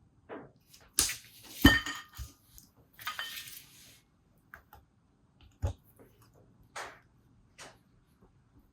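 Small metal tools, screwdriver bits, being rummaged through and picked up, giving a series of clinks and knocks with a short rustle. The loudest is a metallic clink just under two seconds in that rings briefly.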